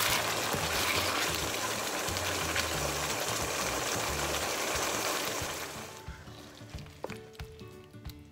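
Vegetables and sauce sizzling and bubbling hard in a wok over high heat. The sizzle fades out about six seconds in, followed by a few clicks of a wooden spatula scraping the food out of the wok onto a plate. Background music plays underneath.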